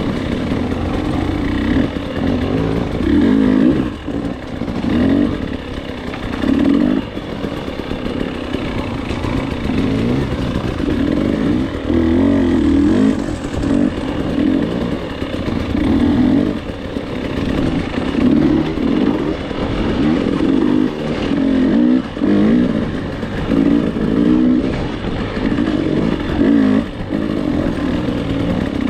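Off-road dirt bike engine revving up and dropping back over and over as the throttle is worked through a practice lap.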